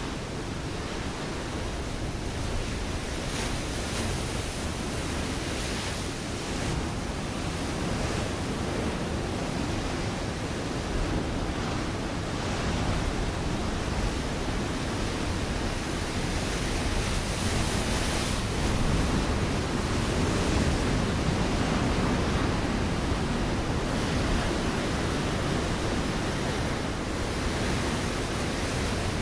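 Ocean waves breaking against a rocky shore: a continuous rushing surf that swells louder near the middle of the stretch, with brief splashes and hiss from the broken water.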